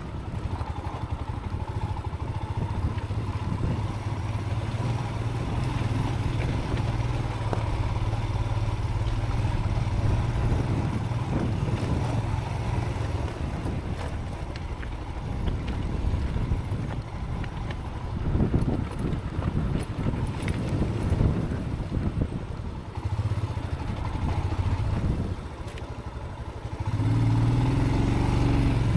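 Motorcycle engine running as it rides a rough dirt track, with wind noise on the helmet microphone and scattered knocks from the bumps. The engine gets louder near the end as the throttle opens.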